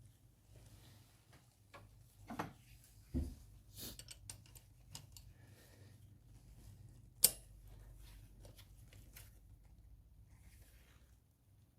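Scattered clicks and knocks of hand tools and parts being handled during a spark plug change, with a couple of duller thumps early on and one sharp metallic click about seven seconds in.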